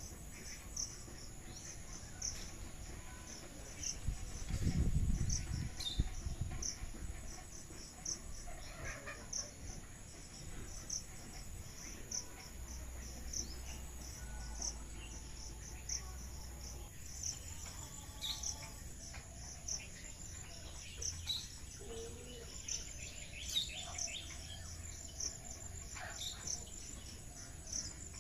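Insects, crickets by their sound, chirping steadily in a fast train of short high-pitched pulses, with scattered bird calls over them. A low rumble rises and falls about four to six seconds in.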